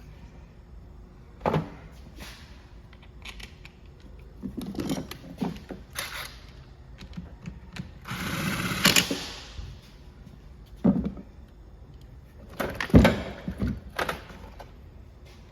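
Scattered knocks, clicks and clatter of a string trimmer and tools being handled, with a longer scraping rasp about 8 seconds in.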